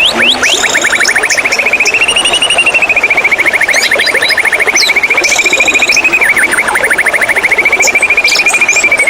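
White-rumped shama singing: one long, fast trill of rapidly repeated notes that rises a little, then falls and wavers in pitch, with short high whistles and chips over it.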